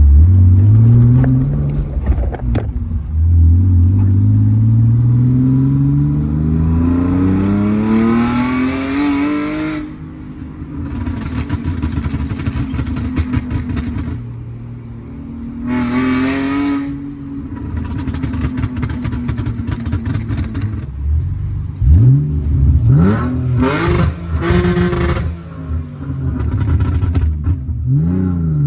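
BMW E46 with a swapped-in M42 four-cylinder engine accelerating hard, its pitch climbing through the revs several times, with one long pull lasting several seconds and a burst of quick blips of the throttle about three quarters of the way through.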